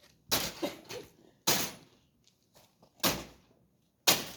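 Wooden bed frame being knocked apart: four heavy bangs about a second apart, with lighter knocks between them.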